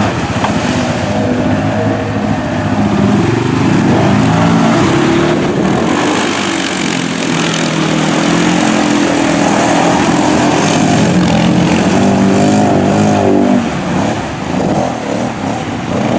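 ATV engine revving hard under load, its pitch climbing and falling again and again as it is hammered through mud and water, easing off near the end.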